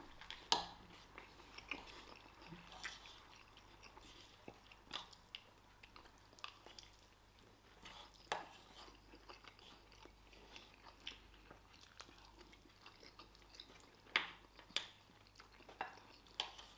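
People chewing and eating rice, stew, fried plantain and chicken, faint, with scattered short sharp clicks through it.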